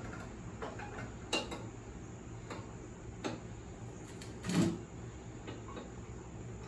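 Scattered light metal clinks and knocks as a riding mower's deck and its hanger linkage are handled and hooked up underneath the mower, with a louder clank about four and a half seconds in.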